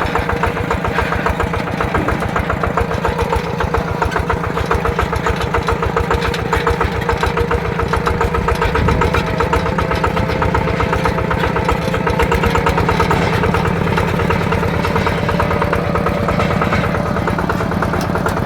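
Yanmar TF120 DI single-cylinder diesel engine on a mini tractor, running steadily with a fast, even beat of firing pulses.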